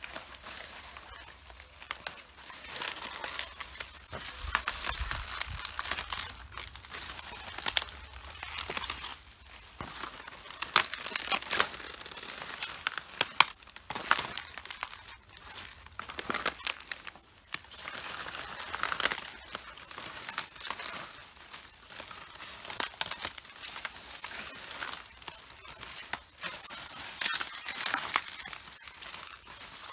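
Footsteps crushing red cabbage leaves, each step a burst of crisp crunching and crackling snaps, with a step every second or two.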